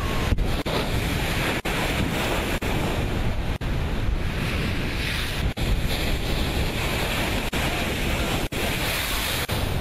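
Strong wind rushing and buffeting the microphone, a steady roar of noise with no engine tone, broken by brief dropouts about once a second.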